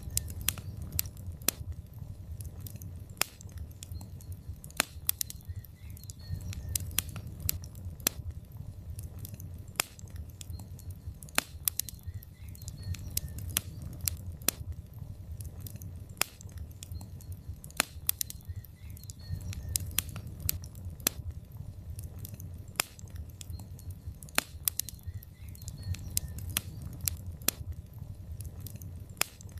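Logs burning in a fireplace, crackling with frequent sharp pops at irregular intervals over a low, steady rumble of the flames.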